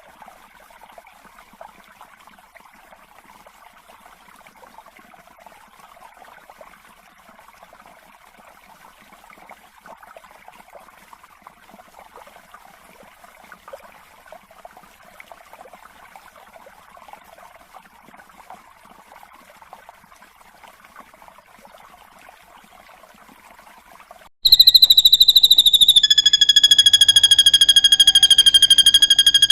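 Faint, steady chirring in the background, then about 25 seconds in a drongo's loud, high whistle starts and is held, falling slightly in pitch. A lower held whistle joins it a second or so later.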